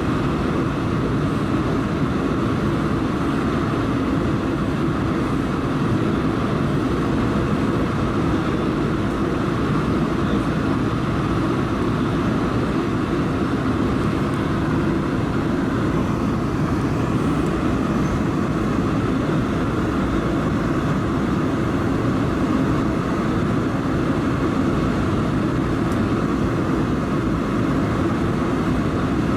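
Steady cabin noise inside an Airbus A220-300, a continuous even rush from its Pratt & Whitney PW1500G geared turbofan engines and the airframe, with no change in level.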